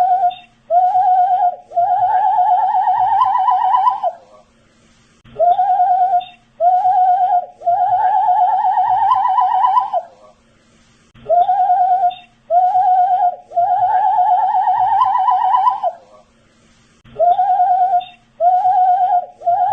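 A man whistling the same short phrase over and over, about every six seconds. Each phrase is two short notes and then a longer, wavering note that climbs slightly in pitch, with a brief pause before it repeats.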